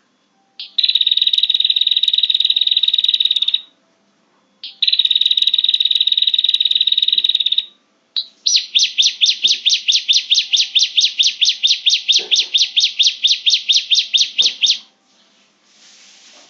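Prenjak (prinia) calls played as a trapping lure: two buzzing trills of about three seconds each, then a fast run of repeated chirps, about six a second, lasting some six seconds.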